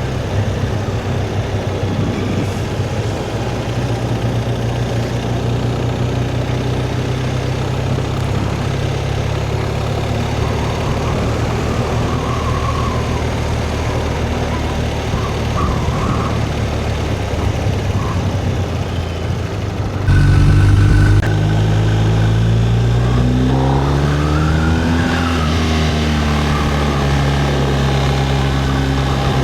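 Motorcycle engine running steadily under way, with wind and road noise. About 20 s in it gets suddenly louder, and a few seconds later the engine pitch rises and then falls again.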